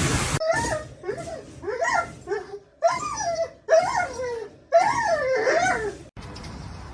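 A dog vocalizing in a run of about seven short, wavering calls that rise and fall in pitch, stopping abruptly about six seconds in.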